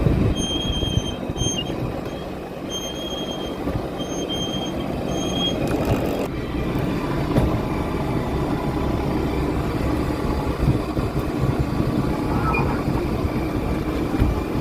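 A fishing boat's engine running steadily, a continuous low drone. Over it, a high thin tone sounds in short pulses during roughly the first six seconds, then stops.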